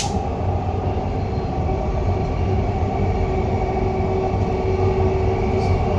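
Dubai Metro train running between stations, heard from inside the carriage: a steady rumble with a faint steady whine over it.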